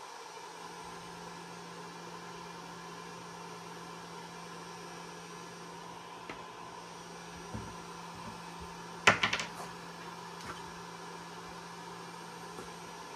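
A small electric motor running with a steady low hum, starting just after the beginning and stopping near the end. About nine seconds in, a sharp clatter of a few quick knocks.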